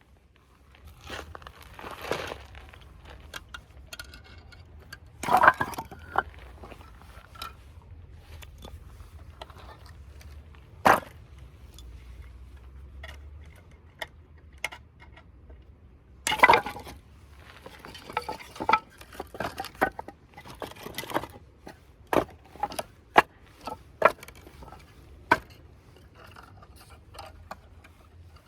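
Irregular knocks, clinks and scrapes of camping gear being handled, with a few louder strikes and a quicker run of sharp ticks in the second half.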